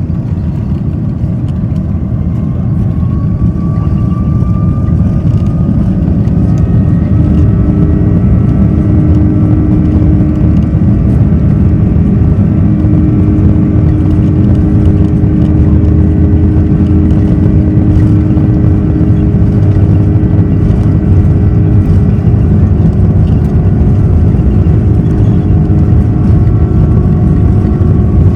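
Airbus A330-300 jet engines heard from inside the cabin during the takeoff run. A loud, steady rumble builds over the first few seconds, with engine tones rising in pitch as the engines spool up, then holds at full power.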